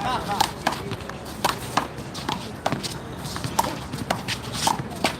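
A rubber handball being slapped by hand and bouncing off the wall and court in a one-wall handball rally: sharp smacks at irregular intervals, roughly two or three a second, with players' running steps.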